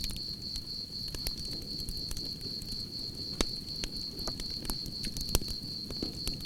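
Campfire crackling with scattered sharp pops over the low rush of the flames, the loudest pops about three and a half and five and a half seconds in. Crickets keep up a steady high trill on one note.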